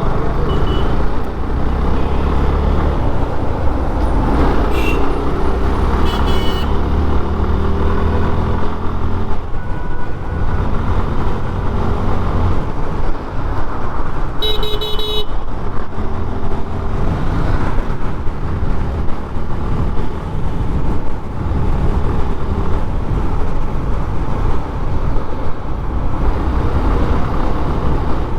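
Riding a Suzuki Gixxer FI ABS motorcycle through city traffic: a steady rumble of wind and engine, with other vehicles' horns honking briefly a couple of times around five to six seconds in and once more, louder, about fifteen seconds in.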